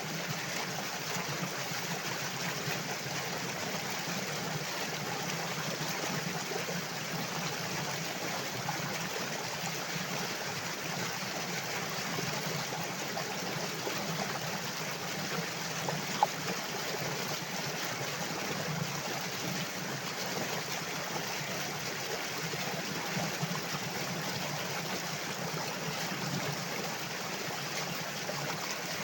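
Water flowing steadily, an even rushing with no break. A single sharp click stands out about halfway through.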